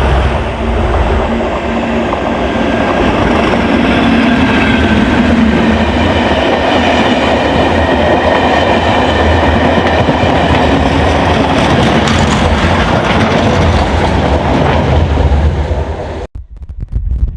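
Class 37 diesel locomotive 37421, with its English Electric V12 engine, running steadily on the rails with a deep engine hum and wheel clatter. About a second before the end it cuts off abruptly to wind buffeting the microphone.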